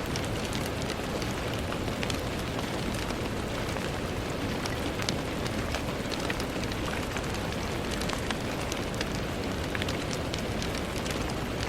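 Steady rain on a window: an even hiss with many separate drop ticks scattered through it.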